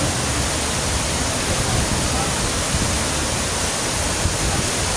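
Man-made waterfall pouring steadily: a dense, even rush of falling water.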